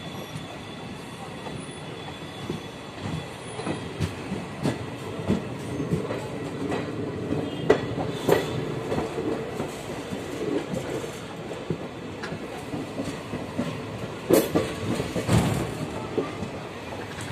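Passenger train running on the rails, heard from an open coach door: a steady rumble with irregular sharp clacks of the wheels over the track. The clacks come in louder clusters about eight seconds in and again near the end.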